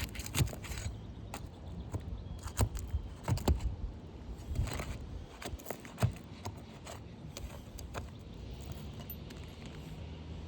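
Irregular clicks, taps and scrapes of hand tools working asphalt shingles during a roof shingle repair, with a few sharper metallic knocks among them.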